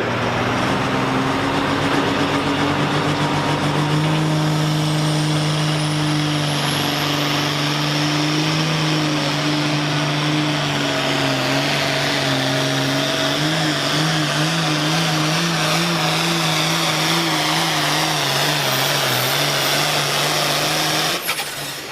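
Diesel engine of the "Little 5.9" pulling vehicle running at sustained high revs under load through a sled pull. The note holds steady, then wavers up and down in pitch for the later part, with a faint high whistle rising over the first few seconds.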